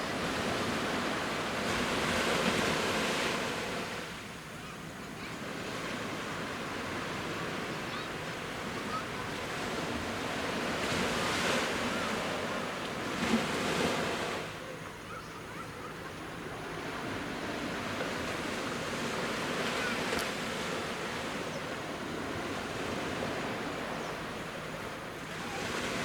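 Sea surf: waves of about a metre breaking and washing up the shore, a steady rush that swells into louder breakers several times, several seconds apart.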